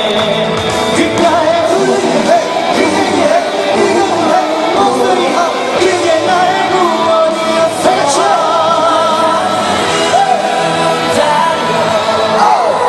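Live pop song: a singer's voice over loud amplified backing music, the sung notes wavering with vibrato.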